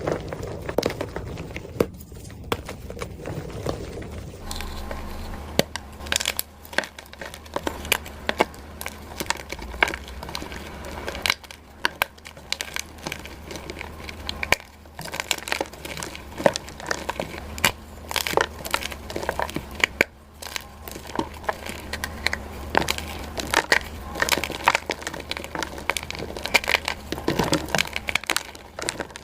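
Blocks of dyed gym chalk being crushed, a dense, irregular run of crunching and crackling snaps that turn crisper about four seconds in.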